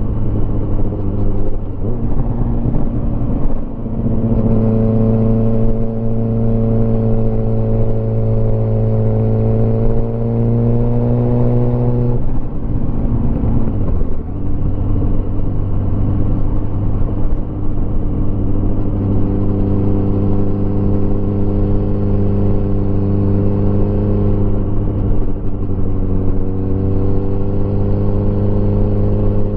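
Motorcycle engine running under way, with a steady engine note over wind and road noise. The note breaks and settles again about four seconds in, climbs slowly, then drops sharply about twelve seconds in before picking up again, as with gear changes.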